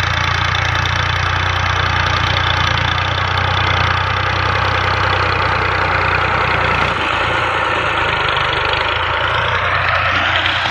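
Tractor's diesel engine running steadily and loud. About two-thirds of the way through, the deep low rumble drops away while the engine keeps running.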